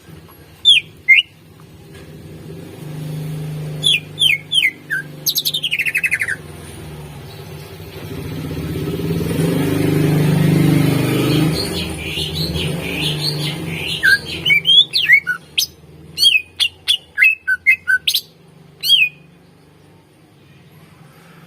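Greater green leafbird (cucak ijo) singing: loud, sharp whistled notes, mostly short downward slurs, in scattered phrases and then a fast run of many notes in the second half. A low rumble swells and fades through the middle.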